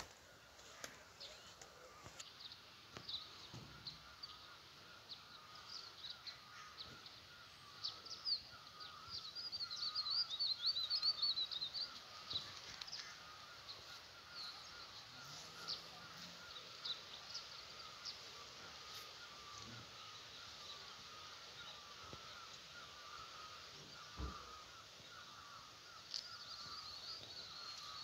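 Birdsong: a steady chorus of distant birds, with a nearer bird's rapid twittering song that is loudest about ten seconds in.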